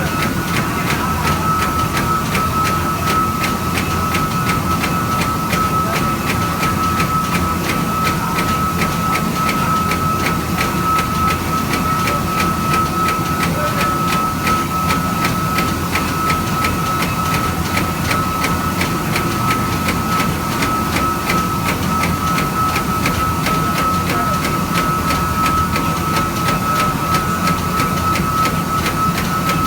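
An eight-spindle CNC machine running, with a constant high spindle whine over a fast, even ticking and a low mechanical rumble.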